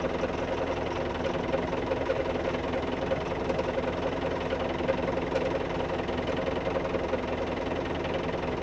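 Old farm tractor engine running steadily at a constant, even pitch.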